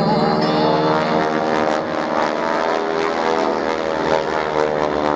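Boeing Stearman biplane's radial engine and propeller droning steadily as it flies a display.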